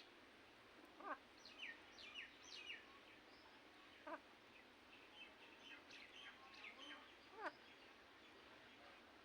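Ringneck parrot making faint, scattered chirps, with three short calls that quickly drop in pitch, about a second in, at about four seconds and near the end.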